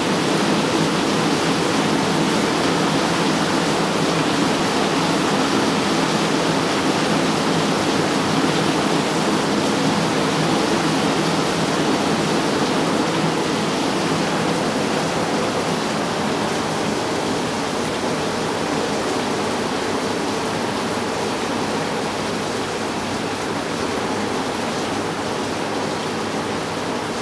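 Very heavy rain pouring down onto corrugated metal roofs: a loud, steady, dense rush of noise that eases slightly in the second half.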